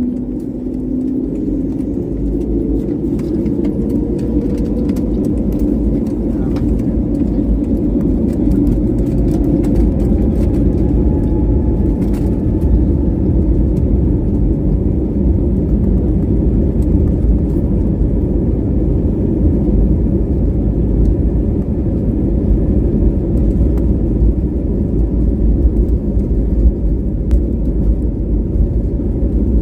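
An airliner's engines and takeoff roll heard from inside the passenger cabin: a heavy rumble that builds over the first several seconds with a faint rising whine, then holds steady and loud, with scattered light clicks and rattles.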